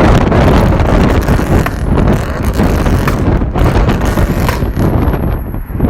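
Heavy wind buffeting the microphone over a Subaru's engine and exhaust running.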